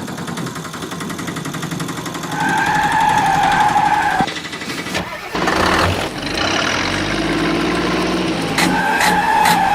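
Vehicle engine sound running unevenly, growing stronger about halfway through. A steady held tone comes twice, about two and a half seconds in and again near the end. A few sharp clicks fall near the end.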